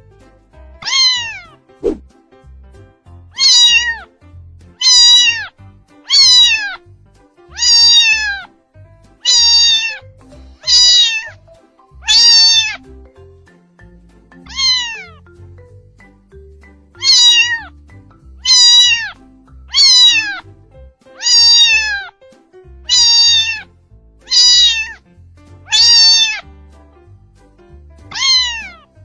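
Kitten meowing over and over: about seventeen high-pitched meows, each falling in pitch, roughly one every second and a half, with a short pause about halfway through. Faint music plays underneath.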